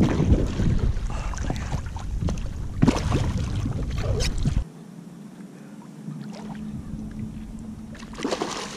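Water splashing and sloshing around a kayak, with wind rumbling on the microphone and a few sharp knocks. The wind rumble cuts off suddenly about halfway through, leaving quieter lapping water and a knock near the end.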